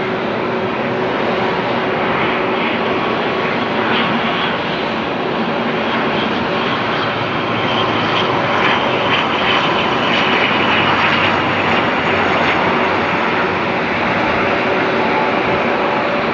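Airliner engines as the plane comes in to land, a steady loud noise with a few steady tones in it, a little louder about halfway through.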